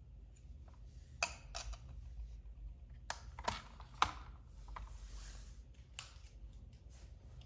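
Handling of an RC toy and its packaging: scattered sharp clicks and taps at uneven intervals, with a brief soft rustle about five seconds in.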